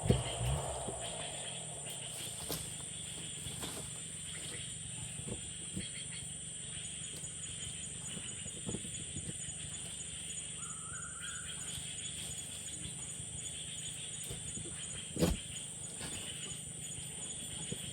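Steady outdoor forest background with a constant high insect drone, broken by one sharp knock about fifteen seconds in.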